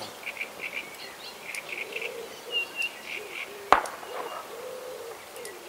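Birds calling: short low hooting notes repeated irregularly, mixed with brief higher chirps, and a single sharp knock a little past halfway through.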